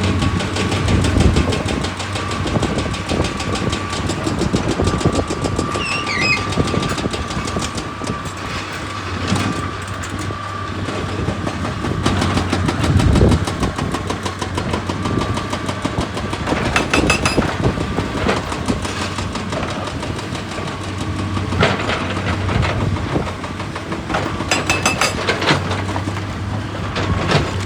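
Heavy diesel quarry machinery running steadily, with a low hum and a high whine, while rock is broken, with scattered knocks and crunches. Twice, about two-thirds through and again near the end, comes a short run of rapid knocking.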